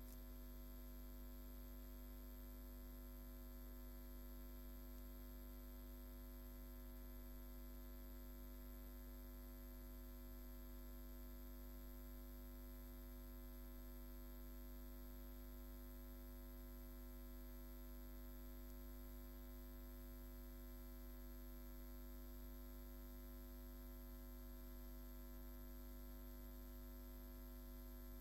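Near silence apart from a steady electrical hum, low and unchanging, with a faint thin high whine above it.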